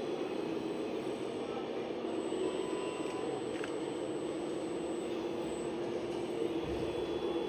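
Radio-controlled model vehicles running, a steady mechanical drone of motors and gearing.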